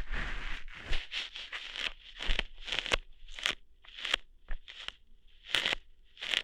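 ASMR ear-hair plucking: a quick series of short crackling, tearing pulls, a dozen or so, some in fast runs and others spaced apart.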